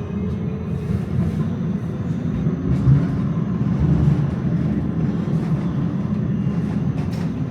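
Tram running along the track, a steady low rumble of wheels on rail and motors, with a couple of light clicks near the end.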